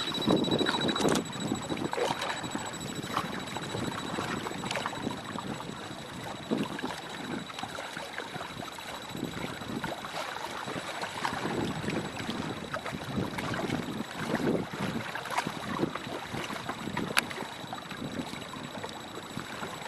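Gusty force-5 wind buffeting the microphone over choppy water slapping and splashing, in uneven swells, with a few sharp clicks and a faint steady high-pitched tone throughout.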